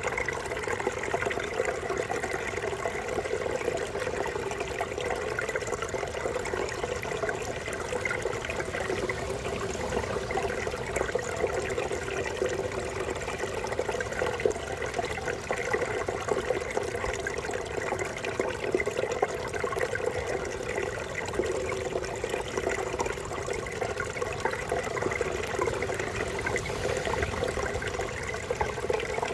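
Babbling brook: water running and gurgling steadily, without a break.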